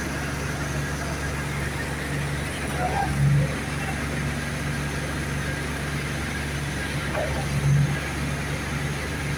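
Truck diesel engine running steadily at the site of a concrete pour, swelling briefly twice, about three seconds in and near the end.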